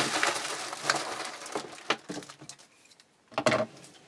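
Crinkling and rustling of trading-card pack packaging being handled and torn open, dying down about two seconds in, then a short sharp rustle near the end.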